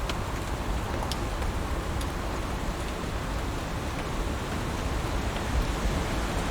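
Heavy rain falling steadily, a dense even hiss, with a few sharper single drop ticks standing out now and then.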